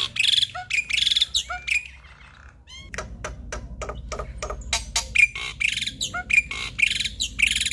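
Male black-winged myna (jalak putih) in full song: a rapid, varied run of harsh squawks, clicks and short whistled notes. The song pauses briefly about two seconds in, then carries on.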